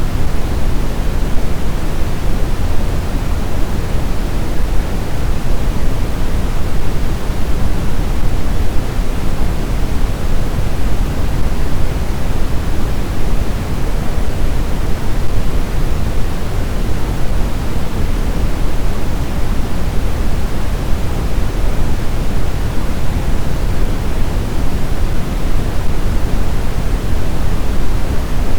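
Blizzard wind ambience: a steady, deep rushing noise with no gusts, howls or changes in level.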